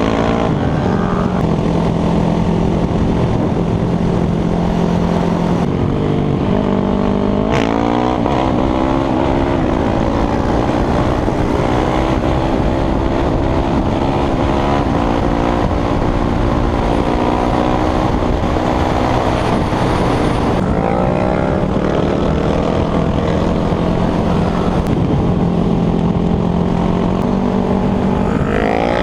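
Motorcycle engine running under way at mostly steady revs, with the revs shifting a few times and climbing near the end, over a constant rumble of wind and road noise.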